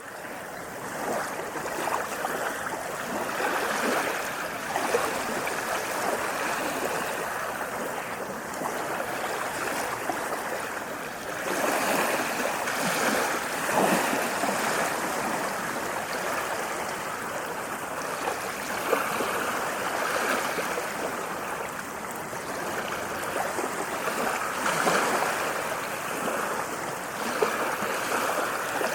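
Sea waves washing in continuously, swelling and easing every few seconds.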